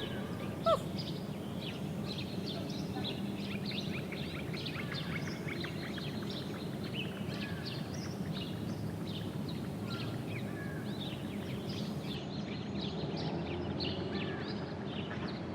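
Many small birds chirping in a continuous chatter over a steady low background noise, with one short louder sound about a second in.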